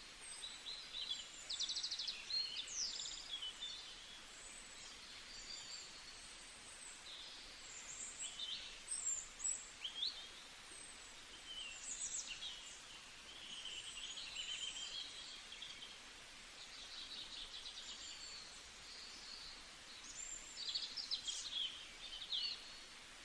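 Several small songbirds chirping, trilling and whistling, the calls coming in bursts over a faint steady background hiss.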